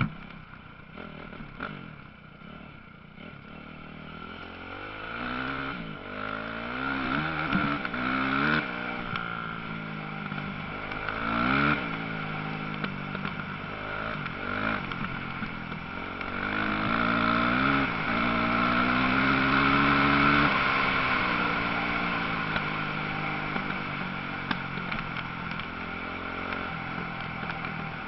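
Motocross bike engines revving hard as riders pass on the track, the engine note climbing and dropping again and again with gear changes and throttle. The sound builds and is loudest about two-thirds of the way through.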